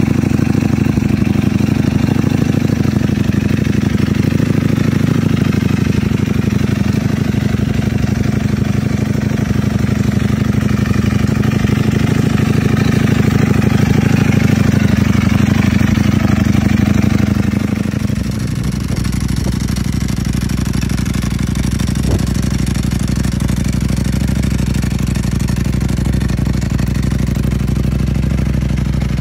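Ducati Panigale V4R's V4 engine idling with a steady, deep note. About two-thirds of the way through, the note drops lower and a little quieter.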